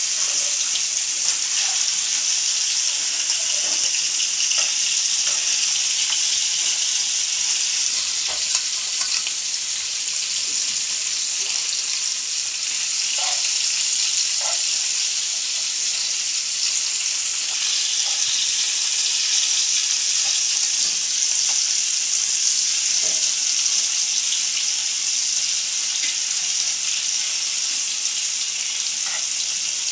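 Chicken pieces shallow-frying in hot oil in a wide pan: a steady sizzle, with scattered small pops and clicks as a metal spoon turns the pieces.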